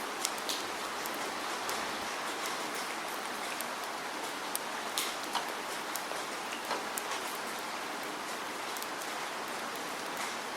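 Steady rain, an even hiss with scattered sharp drip ticks of individual raindrops striking a surface.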